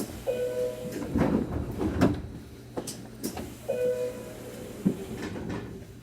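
Train door-closing chime sounding twice, about three and a half seconds apart, with sharp knocks and thumps of the sliding doors shutting in between, over a steady low hum.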